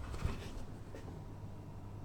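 Faint handling noises as model airplane parts are held and moved: a small knock just after the start, then light rubbing and rustling.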